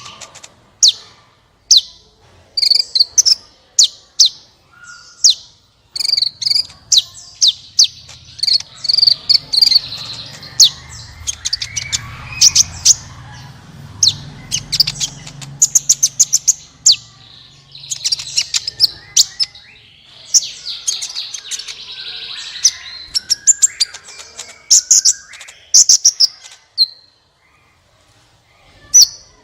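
Sunbird (Indonesian 'kolibri ninja') singing: a rapid string of sharp, high chirps and short buzzy trills with brief gaps, pausing shortly before the end.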